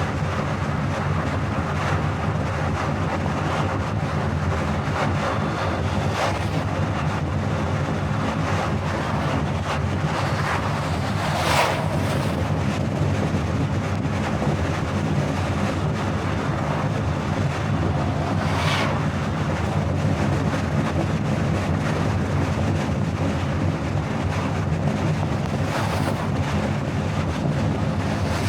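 Steady road and wind noise from a car driving at speed on a highway, with a low, even hum underneath. A few times, about a quarter, two fifths, two thirds and nine tenths of the way through, a short whoosh rises and falls, the loudest a little before the middle.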